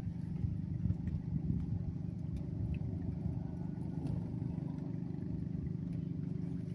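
An engine running steadily, a low even hum with a few faint clicks.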